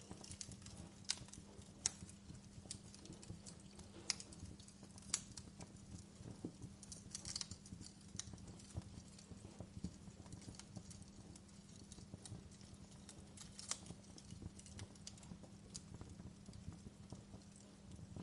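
Wood fire burning in a fireplace, crackling with irregular sharp pops and snaps, a handful louder than the rest, over a low steady rumble.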